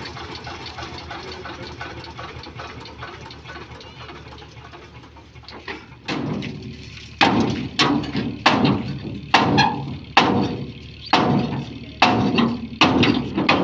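A steady engine-like running noise, then from about six seconds in a series of about ten hard, sharp knocks, roughly one a second, each with a short ring, like bricks being knocked together as they are handled and stacked.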